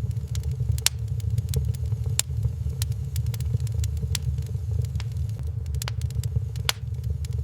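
Wood fire burning in a fireplace, crackling with sharp pops about once a second over a steady low rumble.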